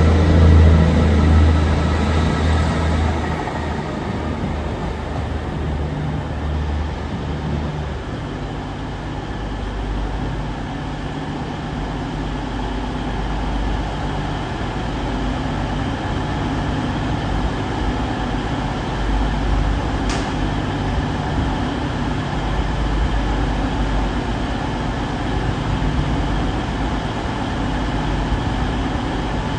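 Diesel train engines running at a station, a deep pitched throb that eases off a few seconds in and settles to a steady low rumble. A single short click about two-thirds through.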